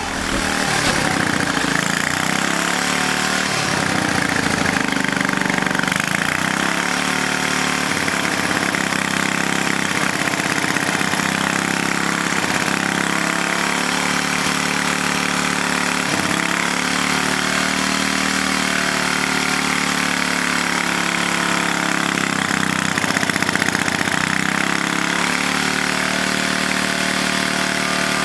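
Vintage 1949 Briggs & Stratton WI single-cylinder gasoline engine running on its own after decades unused, its speed rising and falling slightly.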